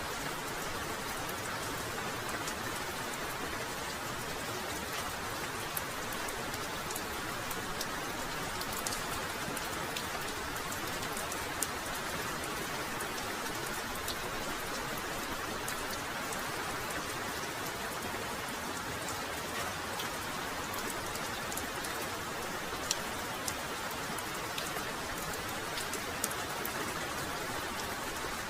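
Heavy rain falling steadily, with many sharp individual drop impacts ticking through the hiss.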